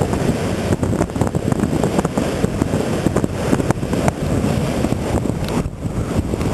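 Strong wind buffeting the microphone in uneven gusts with crackles, over the wash of surf.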